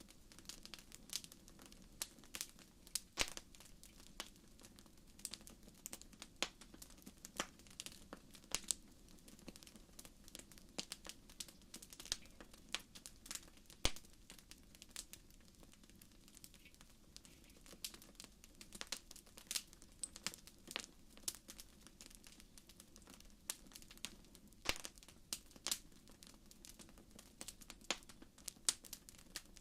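Wood fire crackling in a fireplace: irregular sharp pops and snaps, several a second, over a faint steady low rumble.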